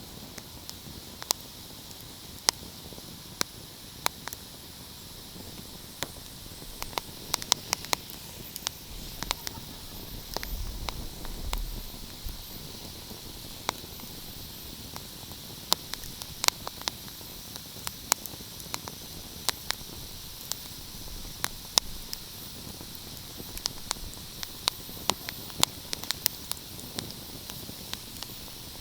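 Wood fire crackling: irregular sharp pops and snaps over a steady soft hiss, with a brief low rumble about ten seconds in.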